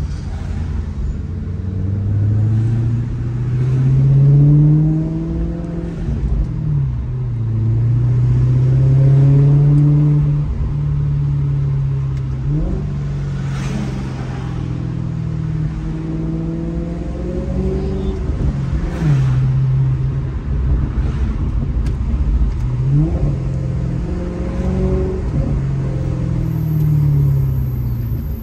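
Maserati GranTurismo's Ferrari-built V8 accelerating through the gears: the engine note climbs, then drops sharply at each upshift, twice in the first half. Later it runs steadier, with a few brief quick rises in pitch like rev blips.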